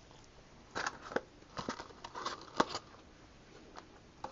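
Close-miked eating of a cheeseburger: a run of short, wet mouth clicks and smacks with small crackles, starting about a second in and stopping near three seconds.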